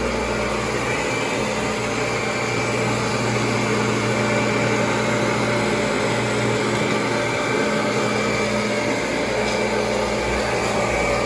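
Kirby G4 upright vacuum cleaner running steadily, its motor holding an even hum.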